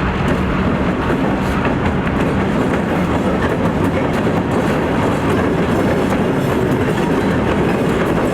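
Freight train rolling past, its steel wheels clattering over the rails in a loud, steady rush.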